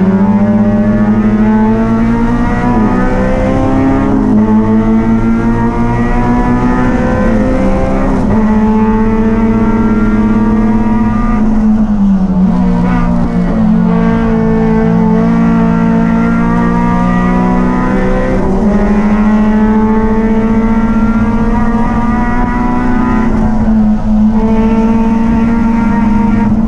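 A race car's engine running hard at high revs. Its pitch dips briefly about every five or six seconds as it comes off the throttle for the corners, then climbs again as it accelerates.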